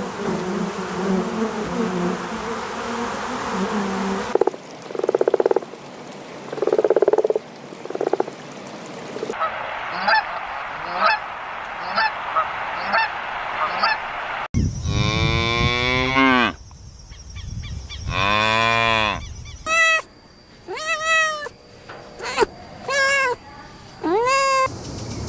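A series of different farm-animal calls from short clips cut one after another: repeated short calls, then long sweeping calls about halfway, then a run of short, honking bird calls near the end.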